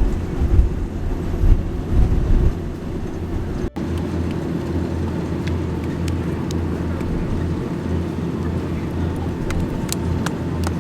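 Steady low drone of a tour boat's engine, with wind gusting on the microphone for the first few seconds; the sound drops out briefly at an edit cut and resumes as an even hum.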